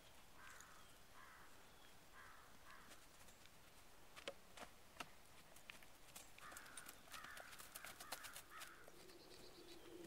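Near silence, broken by faint, harsh bird calls in short runs: two or three near the start and a longer run about six seconds in. Scattered light clicks around the middle and later.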